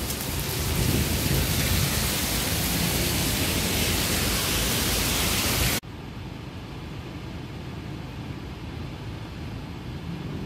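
Heavy rain pouring down, a loud steady hiss. About six seconds in it cuts off abruptly to a quieter, duller steady noise.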